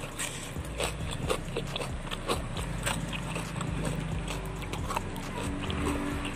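Close-up chewing and lip-smacking of someone eating grilled fish with sambal by hand, with many small, irregular wet clicks.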